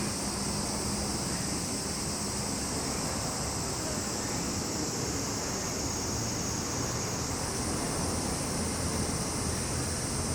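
Cicadas droning in a steady, unbroken high-pitched chorus, with another higher-pitched layer joining about two-thirds of the way through, over a low rumble.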